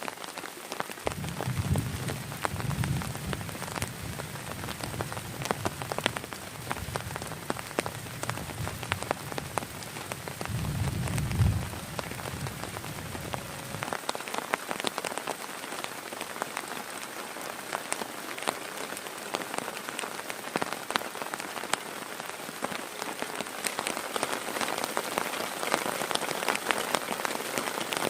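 Steady rain with many sharp drop ticks. A low rumble swells in and out during the first half, strongest twice, about two and eleven seconds in, then dies away.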